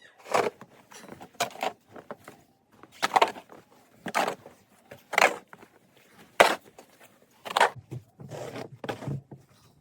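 Snow shovel scraping and scooping heavy snow, one stroke about every second.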